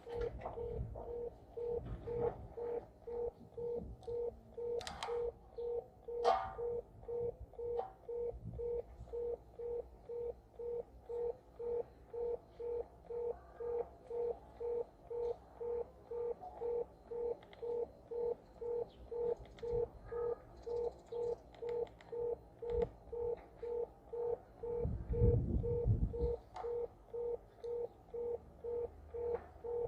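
Satellite finder meter beeping steadily, a mid-pitched tone a little under twice a second, while a mini satellite dish is re-aimed for signal. Scattered clicks and a few sharp knocks of handling, and a low rumble near the end.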